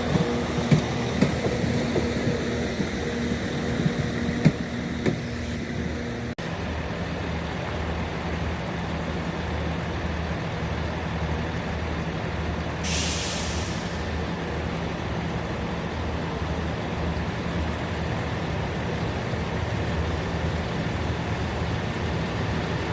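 Diesel train engine idling with a steady, pulsing low rumble, and a short hiss of air released from the brakes about halfway through. An abrupt cut about six seconds in replaces an earlier steady hum with a few clicks.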